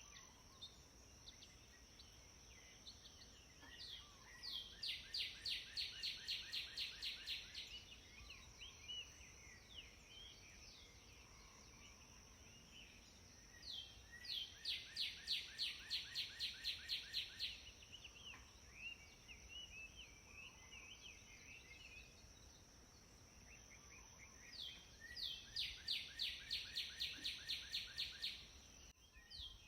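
Natural outdoor ambience with a bird giving a fast, even series of high repeated notes about four to five a second, three times roughly ten seconds apart. Between the series, faint scattered chirps over a steady thin high-pitched hum.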